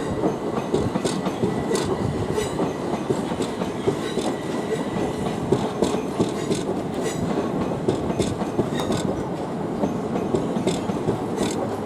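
Electric passenger train pulling out over the station approach, its wheels clattering with irregular sharp clicks over the points and rail joints above a steady rumble, with a faint high steady tone.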